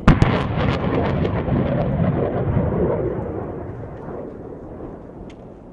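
Rocket launch from an M142 HIMARS launcher: a sudden sharp blast, then a deep rumbling roar that slowly fades over about five seconds.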